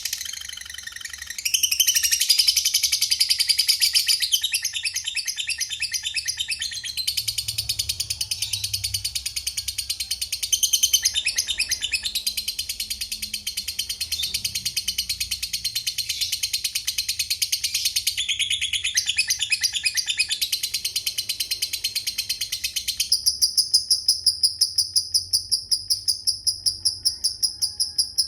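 Lovebird chattering in a long, fast trill ("ngekek panjang"): an unbroken stream of rapid, high, shrill notes. Near the end it gives way to an evenly pulsed high chirping, about three chirps a second.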